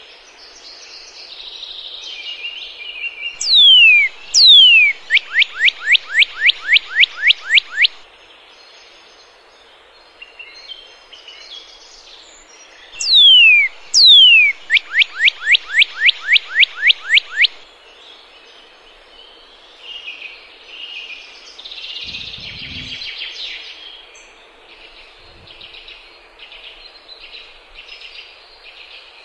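A songbird singing twice, each phrase two long falling whistles followed by a quick run of about a dozen short falling notes, roughly five a second. Fainter chirps and chatter from other birds fill the rest of the time.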